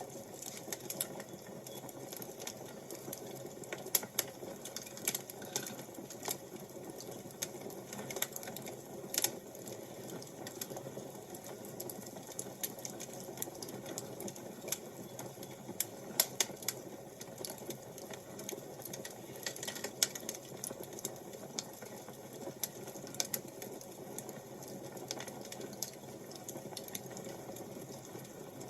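Wood fire crackling: irregular sharp pops and snaps, a few of them louder, over a steady low noise of the fire.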